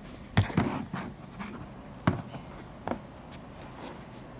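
Hands handling kinetic sand and its plastic container: several sharp knocks and taps, the loudest about half a second in and another about two seconds in, with faint rustling between.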